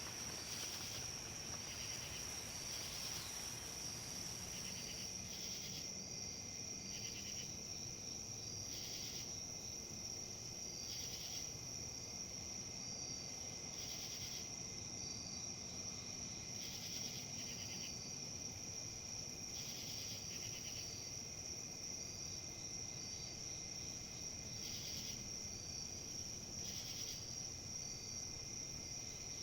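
Crickets or similar insects trilling: one high, steady, unbroken trill with a fainter second band below it, and short pulsed calls repeating every couple of seconds. Underneath is a faint low rustle of wind in leaves.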